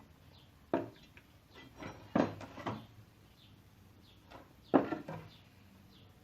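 A few separate knocks and clunks, about five over several seconds, from turbocharger installation parts being handled and set down.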